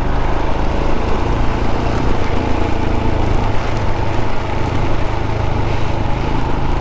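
Royal Enfield 411 single-cylinder engine running steadily at road speed under a steady rush of wind.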